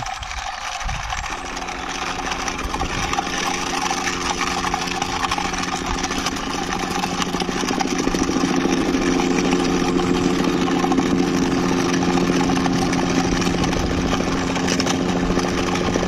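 Plastic toy army helicopter's mechanism whirring as it is pushed along by hand, its rotor spinning. It makes a steady buzzing drone, with a hum that sets in about a second in and grows a little louder.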